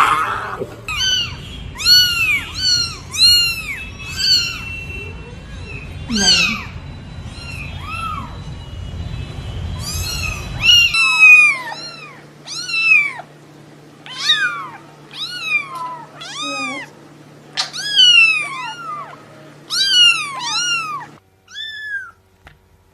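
Cat meowing over and over in short, high mews that rise and fall, about one or two a second. The calls stop shortly before the end, and the background hum changes about halfway through.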